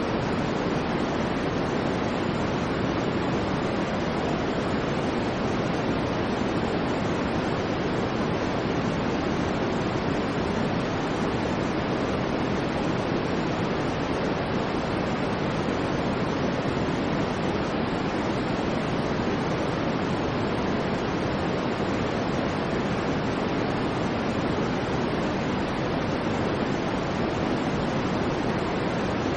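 Continuous white noise: a steady, unvarying rushing hiss, fuller in the lower-middle range than at the top, with no swells or breaks.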